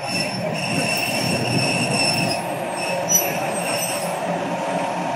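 Excursion train pulling into a station, its wheels squealing in a steady high tone over the low rumble of the rolling cars.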